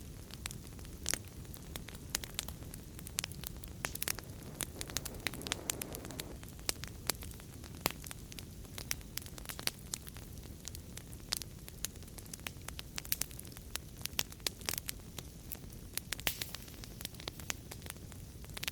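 Wood fire burning in a fireplace: frequent irregular sharp crackles and pops over a steady low rumble of the flames, with a brief soft hiss about five seconds in.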